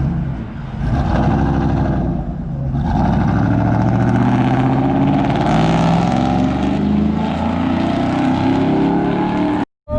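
Pickup truck engine running, its pitch rising and falling with the throttle. The sound cuts out for a moment near the end.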